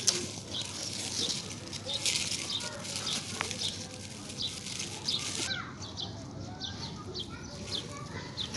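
Small birds chirping repeatedly in short, high calls, over light rustling.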